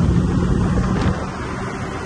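Car engine droning steadily under load, heard from inside the cabin over road and wind noise. About a second in there is a click and the sound drops to a quieter engine drone.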